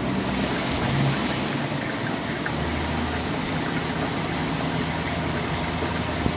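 Engine running steadily at idle, with a constant hiss over a low hum.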